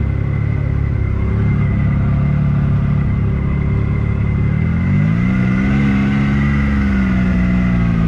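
ATV engine running on a trail ride, its pitch climbing about five seconds in as the machine speeds up, then holding steady.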